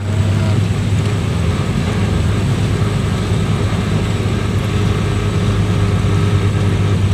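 Suzuki Katana 4x4's engine running steadily while driving, a loud, even low drone with no revving.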